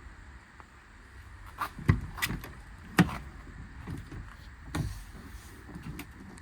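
Several sharp clunks and latch clicks of a truck door being opened and shut, the loudest about three seconds in.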